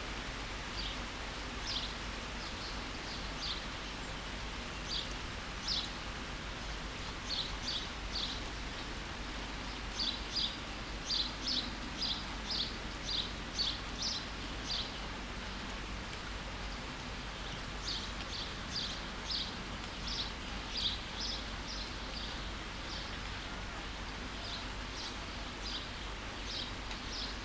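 Steady rain falling, with a small bird chirping short, high notes over it, in quick runs of several chirps at a time.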